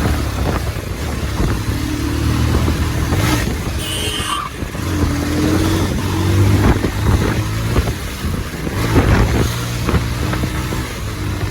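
Motorcycle engine running steadily while riding in traffic, its pitch dipping and picking up again a few times. There is a short high tone about four seconds in.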